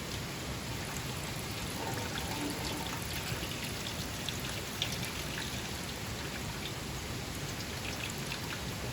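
Rain falling steadily, with scattered individual drops ticking through it.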